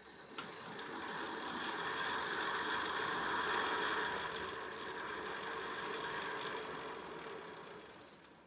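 A machine running with a steady whirring noise that builds up over the first two seconds and fades away near the end.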